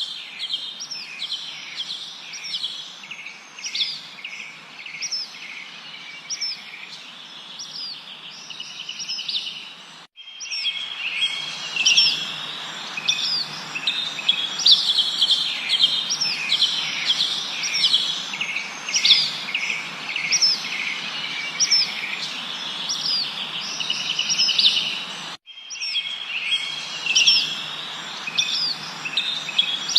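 Forest birdsong: many small birds chirping and trilling over a steady background hiss. The sound cuts out for an instant about ten seconds in and again near 25 seconds, and the chorus is louder after the first break.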